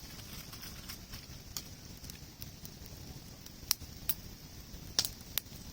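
Wood campfire burning over a steady hiss, with a handful of sharp, separate pops as the logs crack, the loudest about four and five seconds in.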